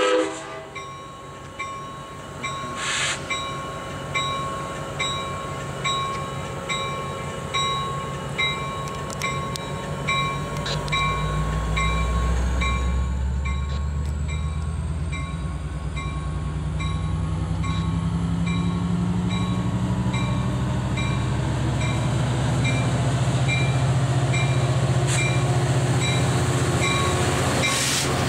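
EMD F59PHI diesel locomotive arriving at a station platform with its passenger train. A short horn blast sounds at the start, and a bell dings steadily throughout. The engine's low rumble swells over the second half as the locomotive draws up and passes.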